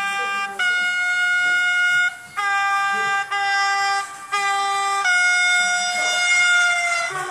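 Train air horn sounding a series of blasts that alternate between two pitches, a high-low pattern, ending in a long blast that sags slightly in pitch as it dies away.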